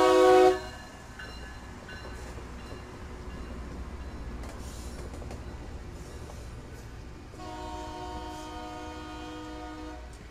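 A multi-chime train horn blowing, cutting off about half a second in. A Loram rail-maintenance train then rumbles steadily past on the rails. A second, quieter horn blast starts about seven seconds in and stops near the end.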